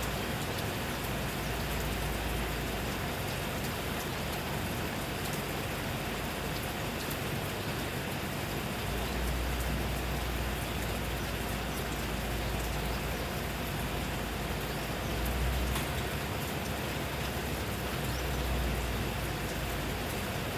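Steady rain falling, a dense even hiss with fine drop ticks, under a low rumble that swells now and then.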